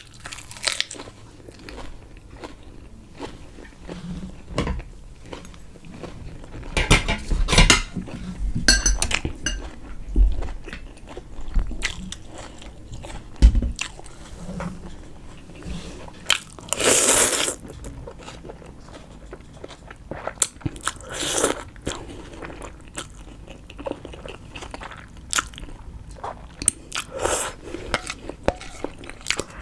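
Close-miked eating sounds: a person biting and chewing food, with irregular crunchy, crackly bites and wet mouth clicks, and several louder bites scattered through.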